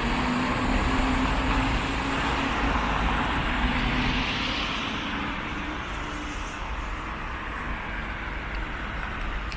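Road traffic: a passing vehicle's engine hum and tyre noise that fade away over the last few seconds.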